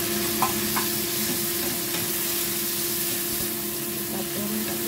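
Carrots, chillies and dried shrimp sizzling in hot oil in a frying pan as they are stir-fried with a wooden spatula, over a steady low hum, with two light taps under a second in.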